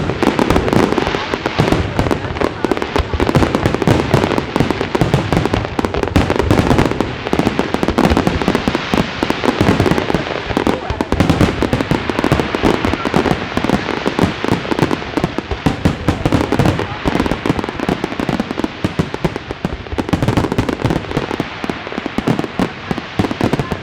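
Fireworks display: a dense, continuous stream of overlapping bangs, pops and crackles with no let-up.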